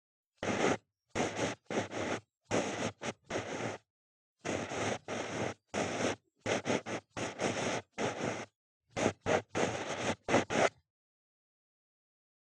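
Ear pick scratching and scraping close to the microphone in a quick series of short strokes, each under a second, with dead silence between them; the strokes stop near the end.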